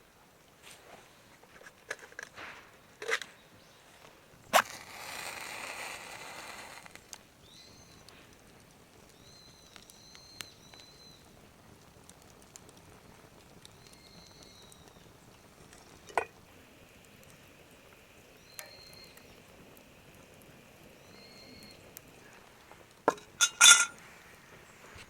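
Scattered knocks and clinks of things being handled, with a rushing noise for about two seconds near the start and a loud cluster of clinks near the end. Short high chirps are heard now and then.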